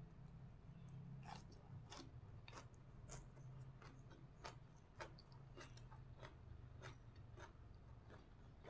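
Faint close-up chewing of a mouthful of raw cha-om (acacia) shoots, with soft irregular crunches and mouth clicks.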